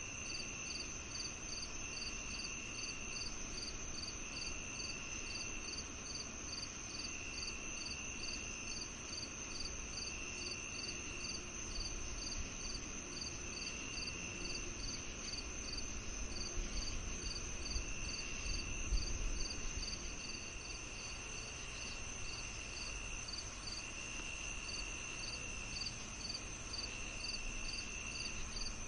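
A chorus of crickets and other insects: a steady high-pitched trill, a chirp repeating about three times a second, and a lower trill that comes in stretches of about a second with short gaps. A faint low rumble lies underneath and swells slightly midway.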